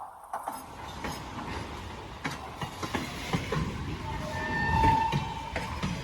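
A slow passing train, its wheels clicking over rail joints with a steady rumble. A brief high whine rises over it about four to five seconds in.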